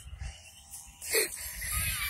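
Wind rumbling on the microphone while a remote-control model airplane comes in to land, with its small electric motor whining faintly near the end. There is one short sharp sound about a second in.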